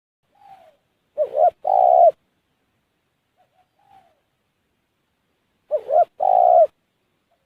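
Spotted dove (tekukur) cooing: two call phrases about four and a half seconds apart, each a soft lead note followed by two loud, deep coos, with a faint single note between them.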